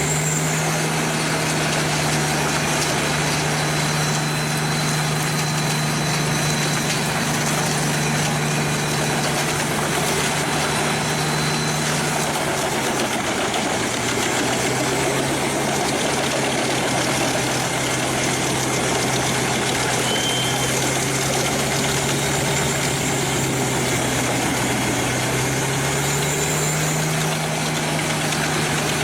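Pezzolato PTH 1400/1000 M drum chipper running at full capacity: a steady engine drone under a dense grinding noise from the drum chipping logs. The engine pitch drops a little about halfway through and rises again near the end.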